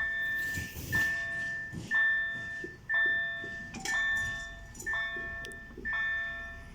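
Level crossing warning bell striking about once a second, each ring fading before the next: the crossing is closed for an approaching or passing train.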